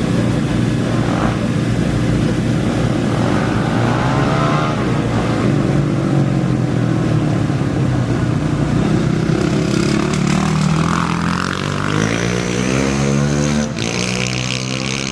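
Off-road racing engines running, with a revving motor whose pitch climbs steadily in the last few seconds as it accelerates away.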